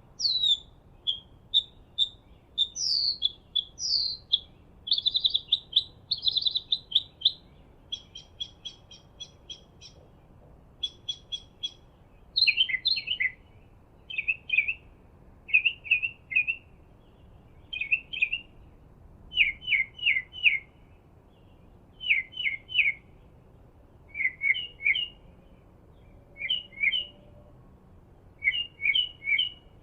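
Songbirds calling. First comes a run of short downward-sliding whistled notes, then quick ticking runs about ten seconds in, then repeated bursts of two or three sharp chirps through the second half.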